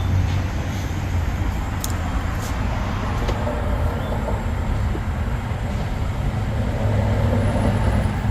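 A steady low mechanical hum with a rushing noise over it, unchanging throughout.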